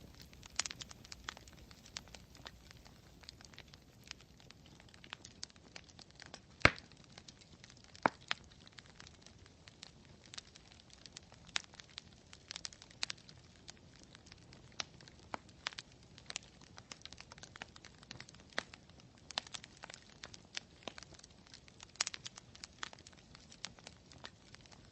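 Campfire crackling: wood burning with a soft hiss and irregular sharp pops and snaps, one pop much louder than the rest about a quarter of the way in.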